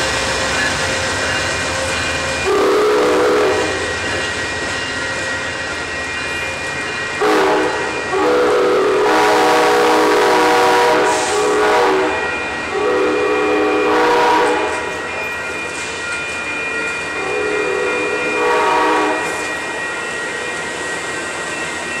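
Amtrak passenger train passing at street level: a steady rolling rumble and hiss from the bilevel cars, with the horn sounding about five blasts, a chord of several tones, the longest held for about four seconds in the middle.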